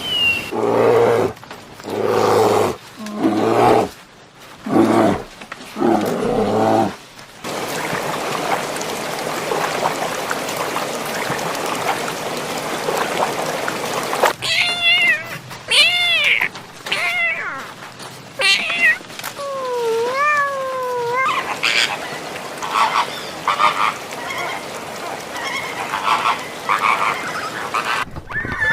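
A series of animal calls in separate bursts: several pitched calls in the first few seconds, a stretch of steady hiss, then arched, falling calls and a wavering call, followed by more short calls near the end.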